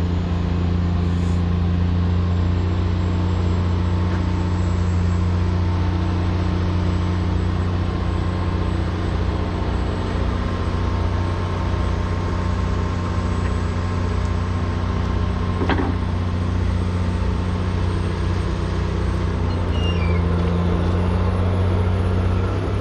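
Heavy diesel engine running steadily at a constant low hum, with one sharp knock about two-thirds of the way through.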